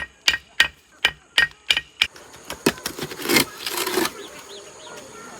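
A quick, even series of sharp knocks with a slight ring, about three a second, stopping about two seconds in; softer scraping and rustling follow.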